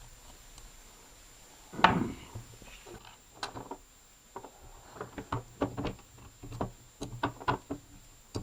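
One loud knock about two seconds in, then a run of sharp clicks and taps that gets busier after about five seconds, like hard parts being handled and knocked together.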